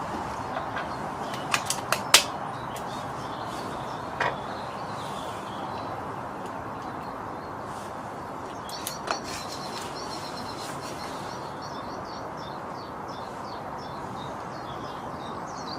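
Brocock Concept PCP air rifle: a few quick clicks of the action, then a single sharp shot about two seconds in, with single clicks about four and nine seconds in. Birds chirp over a steady background hiss in the second half.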